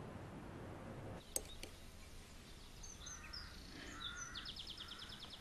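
Birds chirping, with a quick even trill near the end, over a faint background hiss; a single sharp click sounds about a second in.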